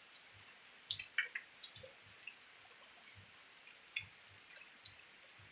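Rain falling steadily as a faint hiss, with scattered drips and soft low thuds from water dripping.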